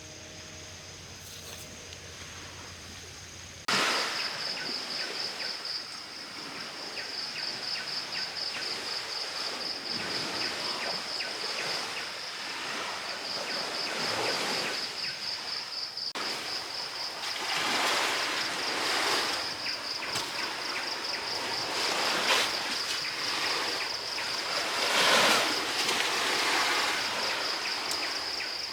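Sea waves washing onto the shore, swelling and breaking every few seconds, over a steady high-pitched insect trill. The sound jumps suddenly louder about four seconds in, after a quieter stretch with a low hum.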